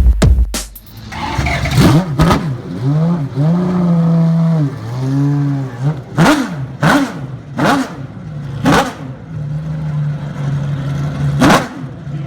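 Ferrari 575 GTC Evoluzione's V12 racing engine with a straight race exhaust being revved while standing. It gives quick sharp blips and a couple of longer swells in revs, and each time it falls back to a steady idle.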